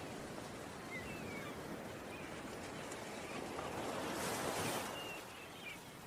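Ocean surf washing steadily, swelling about four seconds in and easing off near the end, with a few faint short chirps over it.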